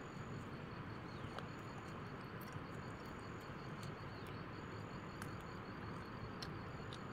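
Faint insects trilling in a high, evenly pulsed chirp over a steady low hiss, with a few small clicks.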